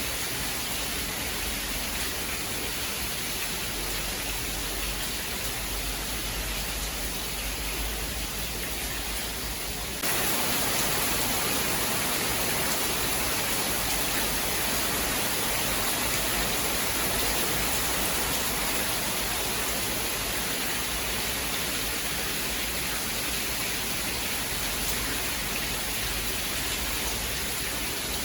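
Steady heavy rain, an even hiss with no thunder, that turns abruptly louder and brighter about ten seconds in.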